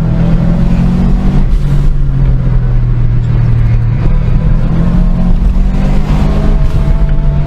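Car engine running under way, loud and steady, its note dropping about a second and a half in and climbing again around five seconds as the revs change, over road and wind noise.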